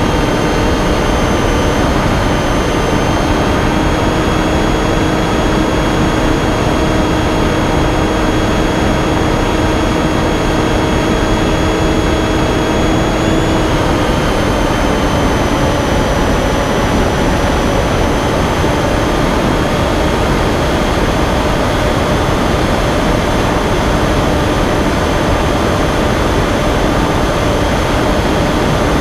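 Finwing Penguin model plane's electric motor and propeller whining steadily under a heavy rush of wind noise. Its pitch steps slightly lower about halfway through.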